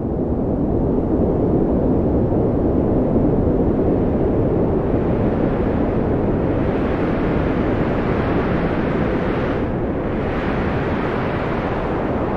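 Wind blowing steadily as a low rushing noise that swells brighter from about the middle and eases for a moment about ten seconds in.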